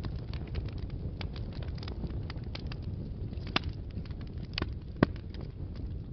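Wood fire burning in a fireplace: a steady low rumble with constant small crackles, and a few louder pops, the loudest about five seconds in.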